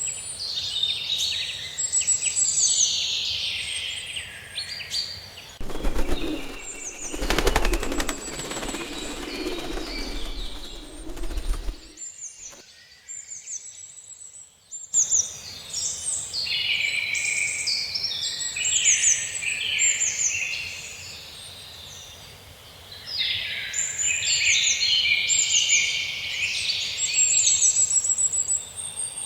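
Songbirds chirping and trilling, many short high calls overlapping. From about six to twelve seconds in, a rapid rattling noise covers them, then after a short quieter gap the birdsong resumes.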